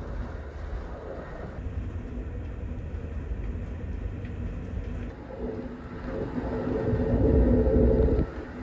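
Steady rumble of a moving passenger train from inside the car. About five seconds in, a low droning tone joins; it grows louder and cuts off suddenly shortly before the end.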